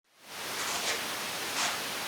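Steady background hiss with two brief soft rustles, about a second in and near the end.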